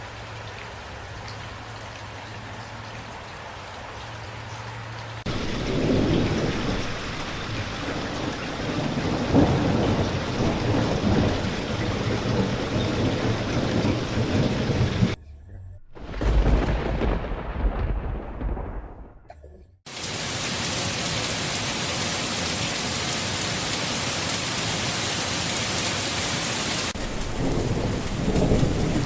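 Steady rain with rolling thunder. The rain is joined by deep thunder rumbles about five seconds in, and the sound cuts abruptly a few times. Midway there is a lone rumble of thunder dying away, then heavy rain resumes, with more thunder rumbling near the end.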